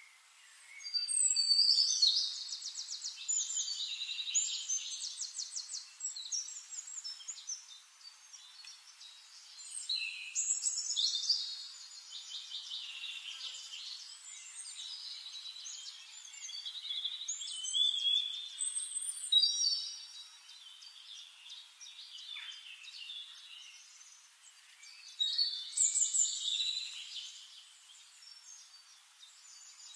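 Birds singing: bursts of chirps, whistles and rapid trills several seconds apart, with quieter twittering between them.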